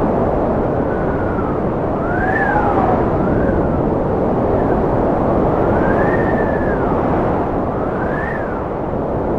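Wind blowing steadily with a rushing noise, and a whistle that rises and falls in pitch several times over it.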